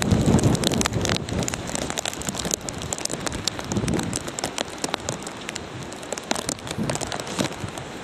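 Hurricane rain falling steadily, with many sharp drop hits close by. A low rumble of wind on the microphone comes in the first second.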